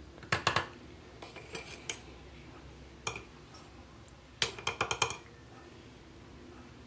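A metal utensil clinking and scraping against a cooking pan or dish in short bursts of quick knocks, with the busiest flurry about four and a half seconds in.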